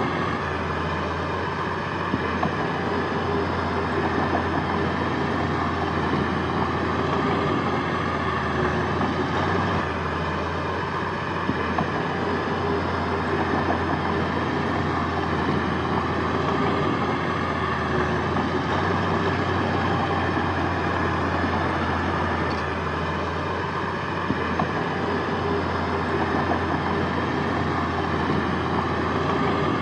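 Heavy diesel earthmoving machinery running steadily under load, a continuous deep engine drone with no clear revs or stops.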